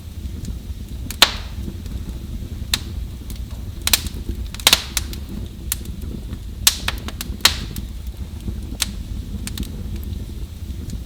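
Wood fire in a fireplace crackling: sharp pops at irregular intervals over a steady low rumble, with the loudest pop about a second in and a cluster of pops around the middle.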